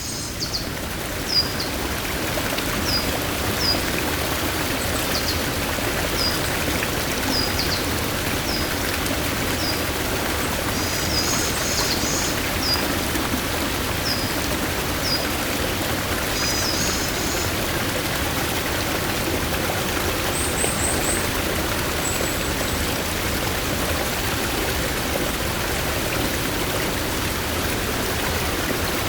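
Stream water flowing steadily over rocks, a full rushing sound. Over it a bird repeats short, high, falling calls about once a second through the first half, with a couple of brief chattering bursts and one short high trill after the middle.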